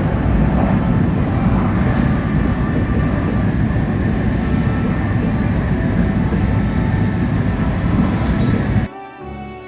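Shinkansen bullet train running at speed, heard from inside the passenger car: a steady rumble and rush, strongest in the low end. It cuts off about nine seconds in as music begins.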